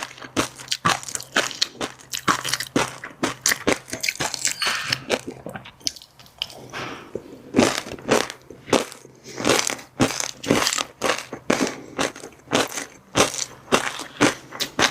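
Close-miked ASMR eating of fish roe and crunchy chili-garlic seafood: rapid crisp crunches and crackling chews, several a second, easing briefly about six seconds in before picking up again.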